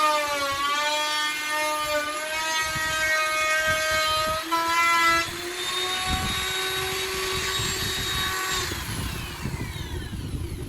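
Handheld electric wood router whining at high speed, its pitch wavering and dropping as it cuts into the door. Near the end it is switched off and the whine winds down.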